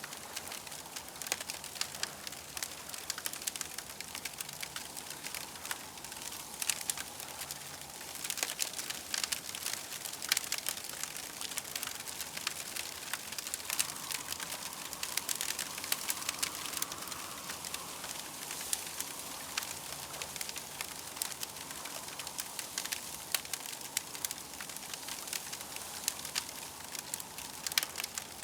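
Campfire crackling, with many irregular sharp pops and snaps over a steady hiss.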